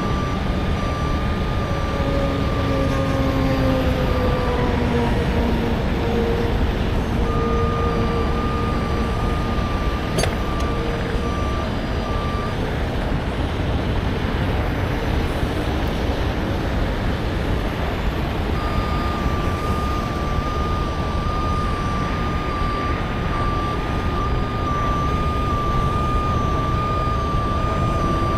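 Heavy truck engine running steadily while a back-up alarm beeps in three runs of rapid pulses, stopping and starting as the truck reverses. Early on, a lower tone slides down in pitch over a few seconds.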